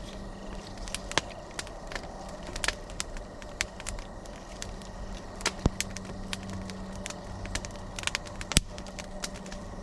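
Campfire crackling, with irregular sharp pops and snaps over a low steady hum.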